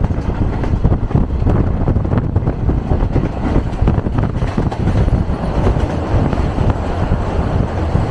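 Steady low rumble of a moving train, heard from a carriage window.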